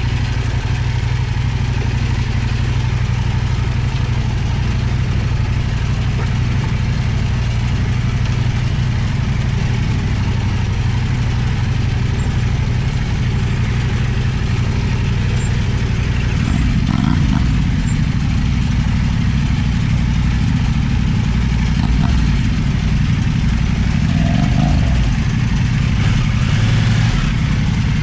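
Kove 800X Pro motorcycle's parallel-twin engine running steadily at low revs, with its pitch and note changing briefly about halfway through and again near the end.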